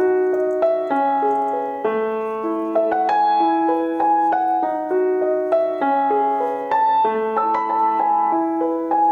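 Soft background piano music, a slow melody of single notes with chords held under them.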